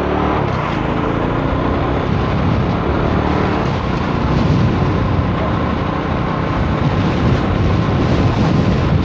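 A road vehicle on the move in strong storm wind: steady wind and road noise over the engine. The engine rises in pitch in the first couple of seconds as the vehicle pulls away.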